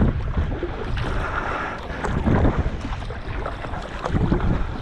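Water sloshing and splashing in irregular low pulses, with wind buffeting the microphone.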